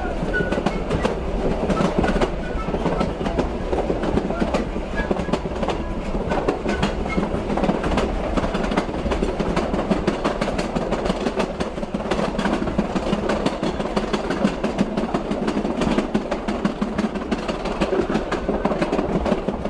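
PeruRail Andean Explorer passenger train running along the track, heard from its open rear platform: a steady rumble with the clickety-clack and rattle of the wheels over the rails.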